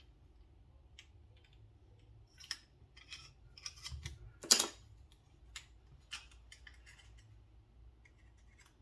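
Small metal pocket-knife parts and tools being worked by hand, a scattering of light clicks and scrapes as a screw is tried for threading during reassembly, with one sharper click about halfway through.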